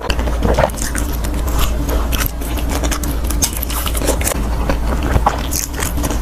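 Close-miked chewing of a mouthful of deep-fried skewered food, with many sharp, irregular crunches and crackles from its crisp crust.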